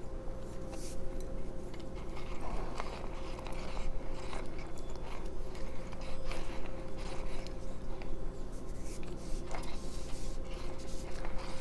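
Hand-cranked manual coffee grinder with ceramic burrs grinding cacao nibs: a continuous, uneven crunching and crackling, full of small clicks, as the crank is turned.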